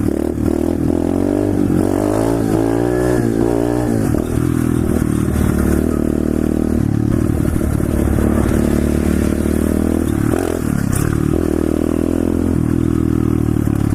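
125cc SSR pit bike's single-cylinder four-stroke engine being ridden hard, revving up and down several times in the first few seconds, then holding a fairly steady high note with a brief drop about ten seconds in.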